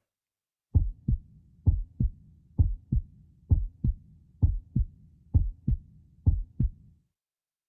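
Heartbeat sound effect: seven double 'lub-dub' thumps at a steady resting pace of a little over one beat a second, starting just under a second in and stopping about a second before the end.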